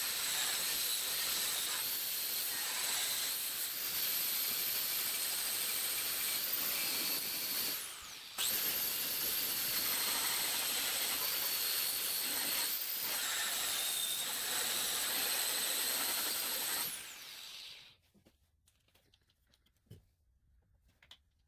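Handheld power tool with a paint- and rust-stripping wheel running steadily with a high whine and a hissing scrub. It is let off briefly about 8 seconds in and picks up again, then shuts off near the end, its whine falling as it winds down. A couple of faint clicks follow.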